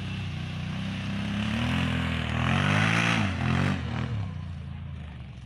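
Motor vehicle engine, its pitch shifting up and down, growing louder to a peak about three seconds in and then fading as it passes by.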